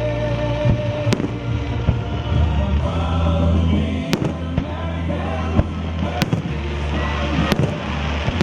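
Aerial firework shells bursting in sharp bangs, about five in a few seconds, over music with a steady bass line.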